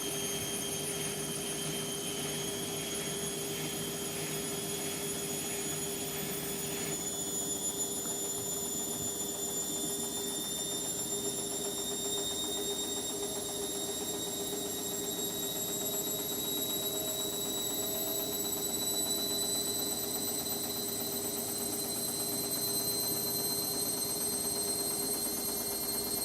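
Indesit MTWC71252WUK washing machine spinning, its motor whine rising slowly in pitch as the drum gathers speed, over a steady hum. A faint regular patter stops about seven seconds in.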